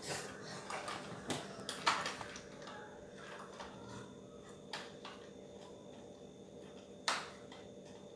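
Plastic Lego pieces being handled: a few scattered sharp clicks and taps, the loudest about two seconds in, over a faint steady room hum.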